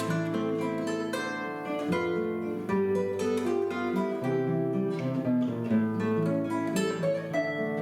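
Guitar duet: two guitars playing a melody over plucked chords, each note ringing and fading.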